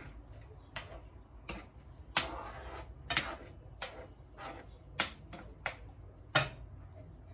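Irregular clicks and light knocks of kitchen utensils and cookware being handled, some with a short scraping tail.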